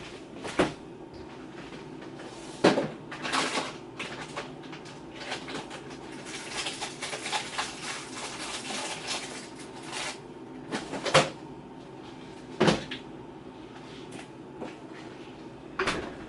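Kitchen handling sounds: several sharp knocks and clunks, like cupboard doors and things being set down on a counter, with a stretch of lighter clatter and rustling in the middle, over a steady low hum.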